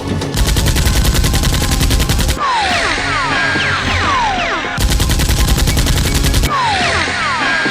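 Two bursts of rapid automatic gunfire sound effect, each about two seconds long, starting just after the start and about five seconds in. Between them come falling whistle-like tones over background music.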